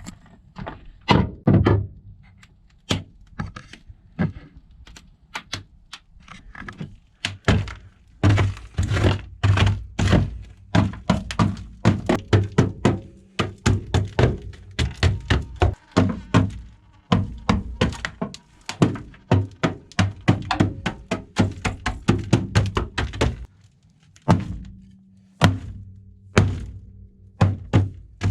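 Rapid, repeated hard thunks, several a second with a short pause about three-quarters of the way through: dry ice being crushed and knocked against the frozen sound-deadening on the car's sheet-metal floor, which is cracking as it goes brittle.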